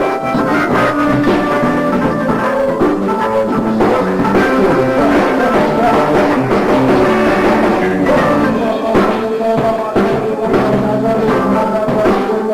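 Live band playing a hip hop/funk jam, with drums and guitar keeping a steady groove.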